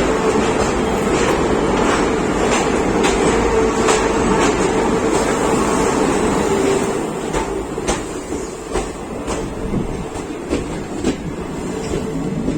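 Passenger train running along the track, heard from on board: a steady rumble with repeated clicks of the wheels over rail joints. It gets noticeably quieter about seven seconds in.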